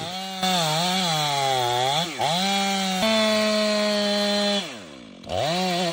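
Chainsaw revving in a cut, its engine pitch dipping and recovering as the chain loads up in the wood. It then holds steady at full throttle, drops off about four and a half seconds in, and revs up again near the end.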